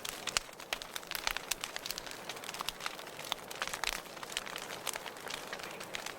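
Wood fire burning in a fireplace: irregular crackles and pops over a soft steady hiss.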